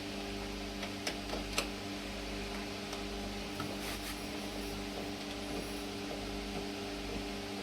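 A steady hum runs throughout, with a few light clicks in the first couple of seconds from handling battery cables and their terminals.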